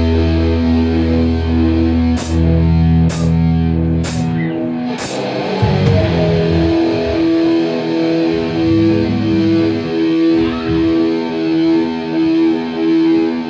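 Rock music played by a band with electric guitar: sustained chords, four sharp hits about a second apart in the first half, then a repeating riff with a note roughly every half second.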